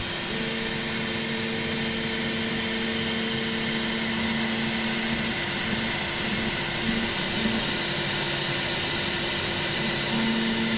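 Bambu Lab P1S 3D printer's stepper motors humming two steady notes during its pre-print calibration routine, its 'little dance', over the whir of its fans. The lower note turns choppy about halfway through and steadies again near the end.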